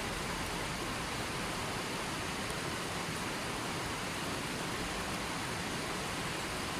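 River water flowing steadily, an even rushing noise that stays level throughout.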